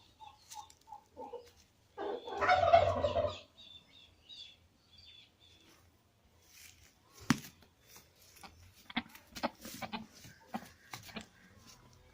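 A farm bird calls once, loudly, for just over a second about two seconds in. Faint high chirps and scattered clicks and knocks follow.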